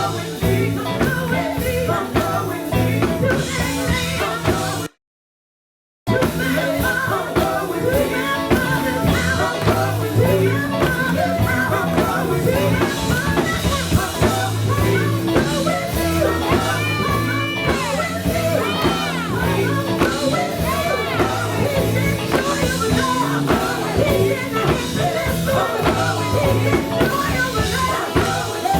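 Live gospel band music with drums, bass and guitar under a singer's voice. The sound cuts out completely for about a second around five seconds in.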